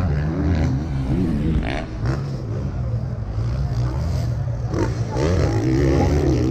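Motocross motorcycle engines running and revving on the track, rising and falling in pitch.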